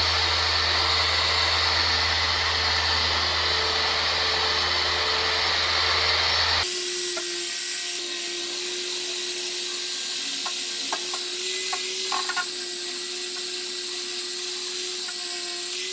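Power sander running steadily on car bodywork, cutting off suddenly about six and a half seconds in; after it, a quieter steady hum with a few light taps and scrapes.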